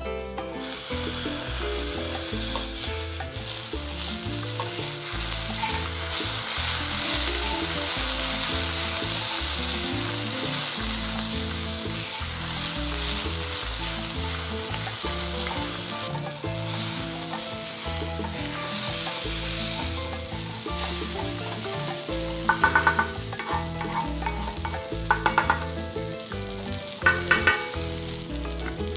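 Diced vegetables sizzling and frying on a hot cast-iron Dutch oven lid as they are stirred with a wooden spatula, with a few short, loud scrapes of the spatula on the iron near the end. Background music plays underneath.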